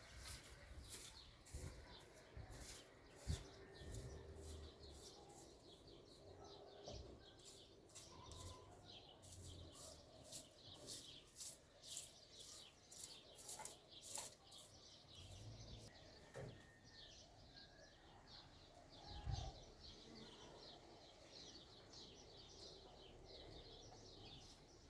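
Small birds chirping faintly in quick runs of short, high notes, with a few soft low thumps.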